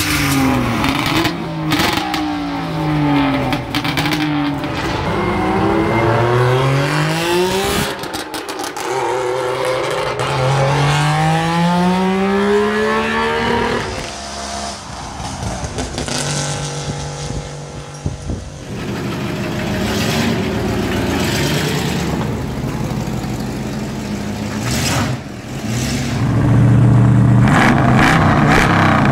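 Melkus RS 1000's tuned three-cylinder two-stroke engine revving up and down several times, then climbing in pitch in long rising pulls. Near the end a deeper V8 engine, the Bitter CD's Chevrolet V8, runs steadily and more loudly.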